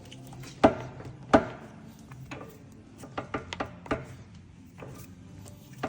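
Sharp knocks and clicks from a geared-head pillar drill's levers and handles being worked: two loud knocks in the first second and a half, then a scatter of lighter clicks, over a low steady hum.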